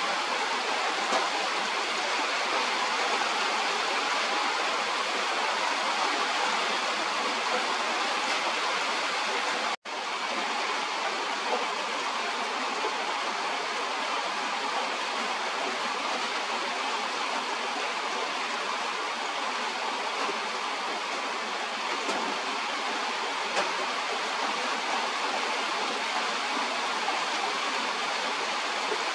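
Steady hiss of rain falling on foliage, with no breaks except a momentary dropout about ten seconds in.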